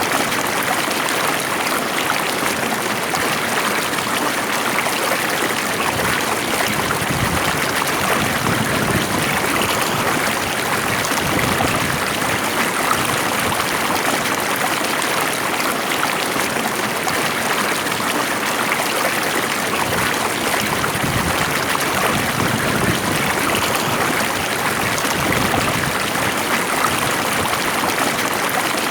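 Stream water flowing steadily over rocks, a continuous even rush with light gurgling.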